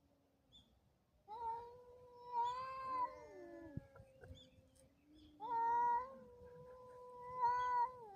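Cats caterwauling: long, drawn-out yowls held for a second or two each, overlapping at different pitches, one sliding down in pitch about three and a half seconds in.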